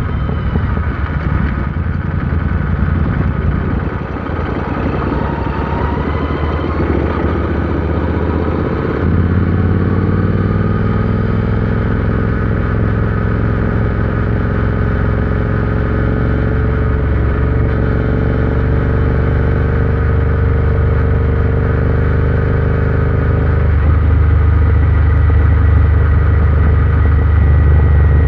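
Royal Enfield Interceptor 650's parallel-twin engine running steadily under way. The engine note shifts about nine seconds in and grows louder again a few seconds before the end, as throttle or gear changes.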